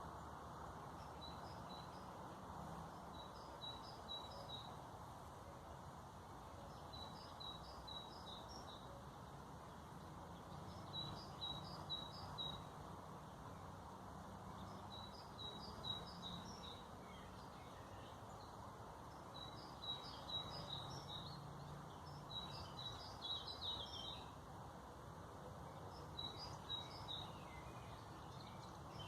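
A songbird singing short phrases of a few quick, high chirps, repeated about every three to four seconds, over a steady low background rush.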